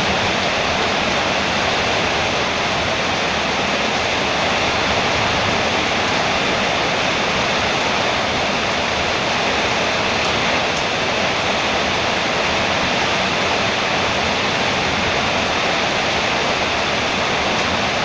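Heavy rain drumming steadily on a metal roof, a dense, even hiss of drops.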